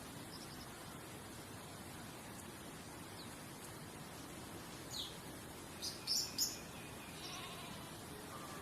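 Wild birds calling over a steady soft rushing background: one quick falling chirp about five seconds in, then a short burst of high chirps, the loudest sounds, about a second later, and a fainter wavering call near the end.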